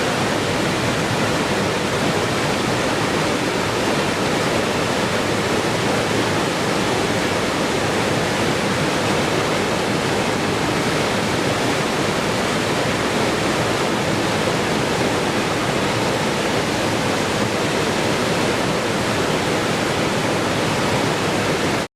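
Steady rushing water, an even, unchanging wash of noise like a waterfall, which drops out for an instant right at the end.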